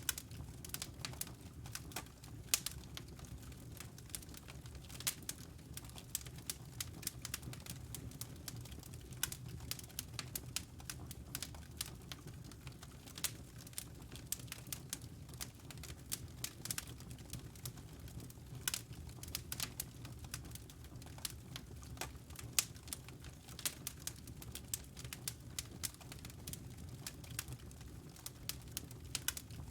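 Wood fire in a fireplace crackling: irregular sharp pops and snaps, a few of them louder, over a steady low rumble from the burning.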